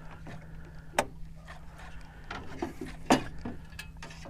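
Two sharp knocks, about a second in and about three seconds in, with a few lighter taps between: objects bumping and being moved on the deck of a small fishing skiff. A faint steady hum runs underneath.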